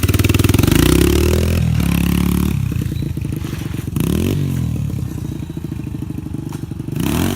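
A 2004 Yamaha TT-R125 dirt bike's single-cylinder four-stroke engine being ridden and shifted through the gears. The engine note drops and climbs again several times as the clutch is pulled in and a gear is selected.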